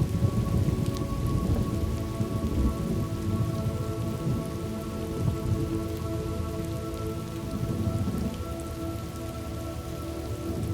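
Steady rain falling, with a low rolling rumble of thunder that dies away about eight seconds in.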